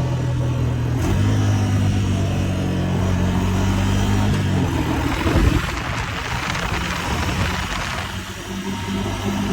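Honda 400 engine running at steady throttle, then a quick crackle of exhaust pops about five seconds in as the throttle comes off, followed by a few seconds of rushing noise before the engine pulls steadily again near the end.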